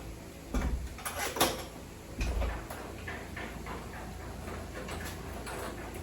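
A few short knocks and clicks, such as objects being handled or a door being moved, in the first two and a half seconds, over a steady low background hum.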